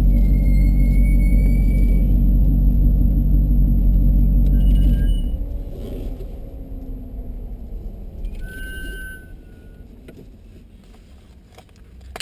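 Corvette Grand Sport's V8 rumbling at low speed as the car rolls in. About five seconds in, the engine sound drops off sharply to a much quieter level.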